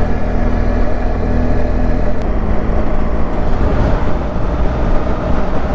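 Motorcycle engine running steadily while riding, with wind rush over the rider's microphone. There is a sharp click about two seconds in, where the engine note shifts.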